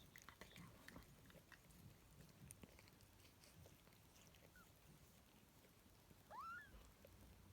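A newborn kitten gives one short, high mew that rises in pitch, about six seconds in, with a fainter squeak shortly before it. Faint soft clicks in the first second or so.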